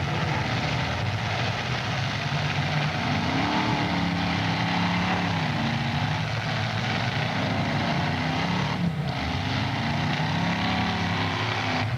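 Several demolition-derby car engines running together in a loud, continuous drone, with engines revving up and down, their pitch rising and falling a few seconds in and again later.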